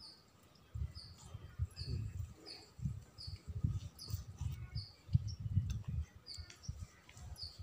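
A bird repeating a single short, high chirp about every two-thirds of a second, over low, irregular knocks from knives cutting chicken on wooden boards.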